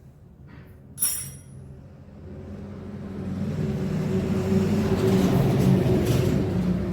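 A sharp metallic clink about a second in, then a motor vehicle engine running, growing steadily louder from about two seconds in.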